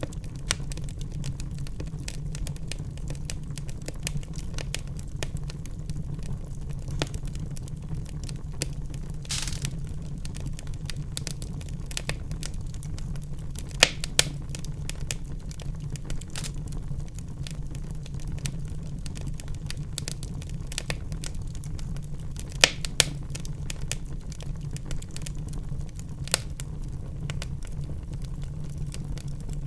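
Wood fire in a fireplace burning with a low steady rumble and constant crackling, with a few louder pops.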